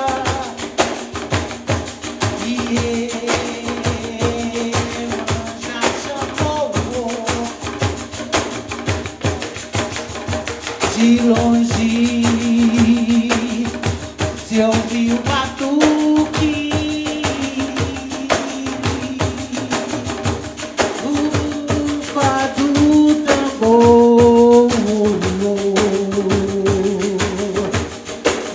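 Live music led by a group of pandeiros, Brazilian jingled frame drums, playing a dense, fast rhythm, with a melody of long held notes stepping up and down over it.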